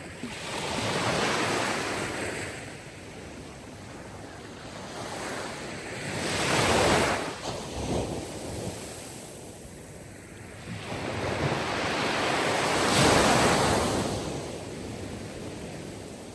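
Sea waves breaking and washing on a shore. Three swells come in, about six seconds apart, each rising and then falling away.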